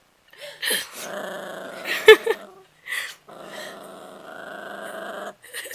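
A dog growling in two long drawn-out grumbles, with a couple of sharper, louder outbursts in the first, the sound of a sulky dog protesting at being taken for a walk.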